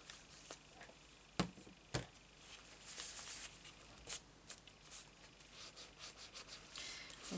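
Faint handling of paper and washi tape at a craft desk. Two sharp taps come about a second and a half and two seconds in, then a brief high rustle and a few small clicks.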